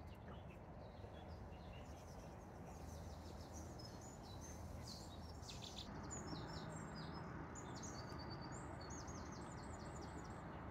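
Faint birdsong: many small birds chirping in quick, short, high calls over a low, steady background rumble.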